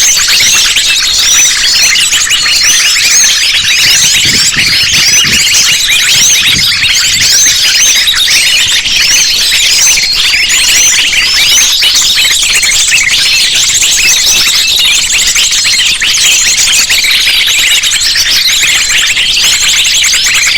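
Dense, loud chorus of many small birds chirping and trilling over one another in rapid high notes: a mixed bird-lure recording of sunbirds and other small songbirds.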